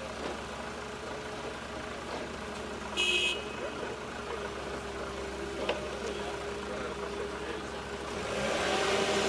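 A vehicle engine running steadily, with a short high-pitched tone about three seconds in and a sharp click a little before six seconds. The engine grows louder near the end.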